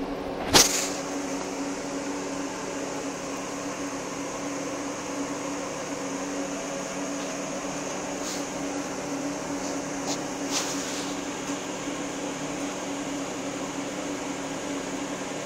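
Steady mechanical hum with a faint high whine, like a household appliance or fan running, broken by one sharp loud click about half a second in and a few fainter clicks later on.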